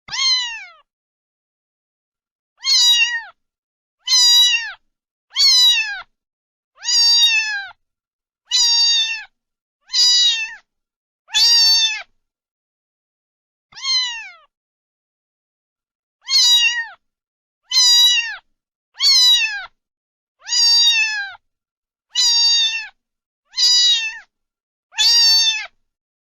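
A cat meowing over and over, about sixteen short meows each falling in pitch at the end, with dead silence between them.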